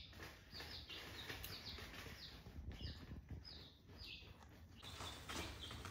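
Rose-ringed parakeet chirping faintly, a steady series of short high chirps about two a second.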